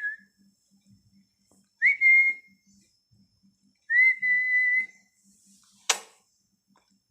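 Two clear whistles, each rising quickly into a held note, the second lasting about a second, then a single sharp click near the end.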